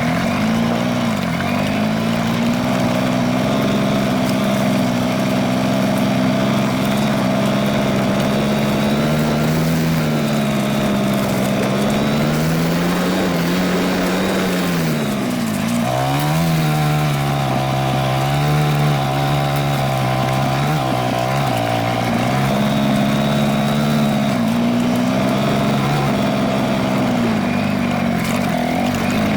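Dirt bike engine running as it is ridden along a trail, its pitch rising and falling with the throttle. About halfway through the engine slows almost to idle, then picks up again with an uneven, wavering note for a few seconds before settling.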